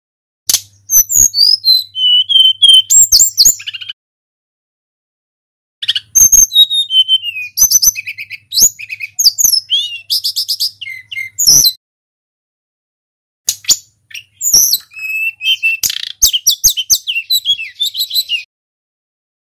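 Tledekan gunung songbird singing in three bursts of fast, varied high whistles and trills, with short pauses between the bursts.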